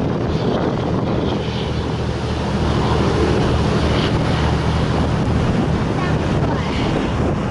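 Strong typhoon wind buffeting the microphone in a steady, loud rush, with rough sea surging underneath.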